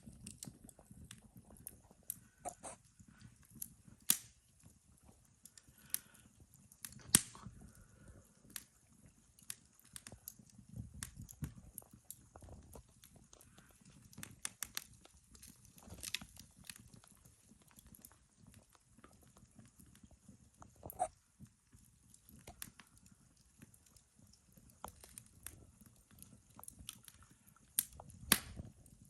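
Wood fire in a fireplace crackling: irregular sharp pops and snaps, a few louder cracks among them, over a soft low rumble of the flames.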